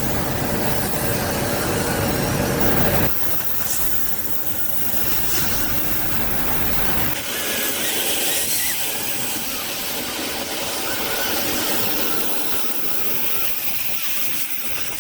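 Small RC helicopter's electric motors and coaxial twin rotors running in flight, a steady whirring hum. The sound changes abruptly about three and seven seconds in, losing much of its low rumble after the second change.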